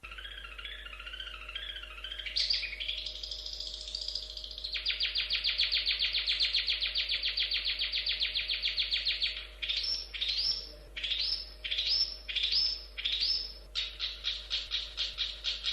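Long-tailed shrike (cendet) singing a varied song: a warbling phrase, then a long fast trill, then a run of sharp rising notes about two a second, ending in fast chattering notes. A faint steady hum runs underneath.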